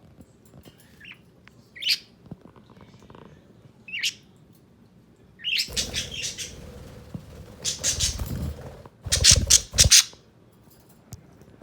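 Pet budgerigars calling: two short chirps, then from about halfway a louder run of harsh squawking chatter that peaks near the end.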